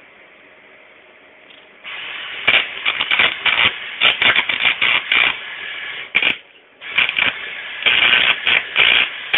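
Electric arc welding: the arc starts about two seconds in with a loud, crackling sizzle. It breaks off briefly about six seconds in, then strikes again and keeps crackling.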